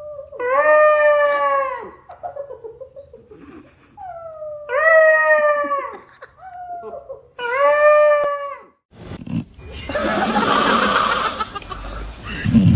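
A dog howling: three long, pitched calls of about a second and a half each, spaced a few seconds apart, followed near the end by a stretch of rough, noisy sound.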